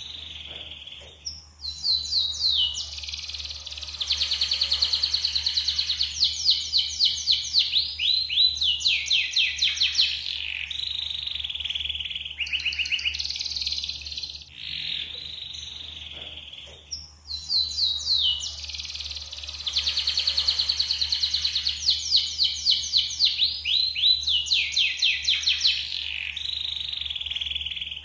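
Yellow canary singing a clean, varied song: long fast trills and rolling runs of repeated notes, with the same sequence of phrases coming round again about every 15 seconds. It is the kind of clean canary song played as a 'pancingan' recording to prompt other canaries to sing.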